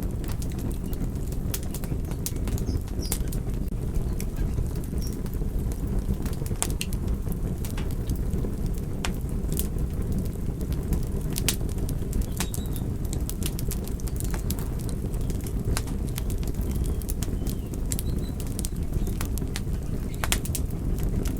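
Wood fire crackling, with a steady low rumble under frequent sharp, irregular pops and snaps.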